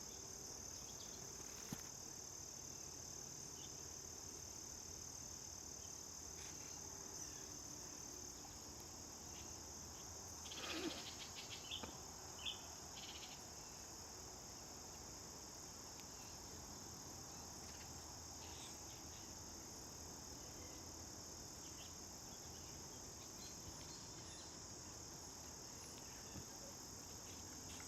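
A faint, steady high-pitched drone of insects trilling in the background. About ten seconds in there is a brief rustle, followed by a few short, faint chirps.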